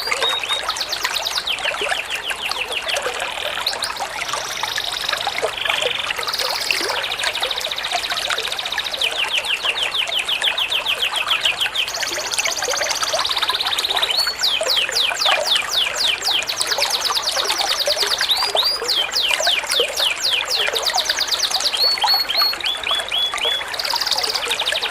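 Recorded songbirds calling in fast runs of high, repeated chirps, the pattern changing every second or two, over a steady sound of trickling water.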